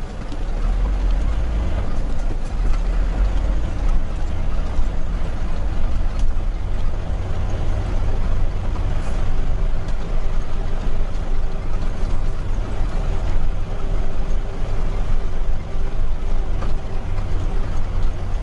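Concrete mixer truck's diesel engine and road noise while driving, a steady low rumble.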